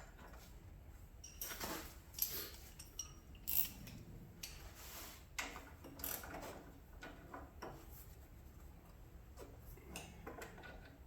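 Hand tools and metal parts clinking and clicking as they are handled, in irregular short knocks with a longer scraping rustle about halfway through.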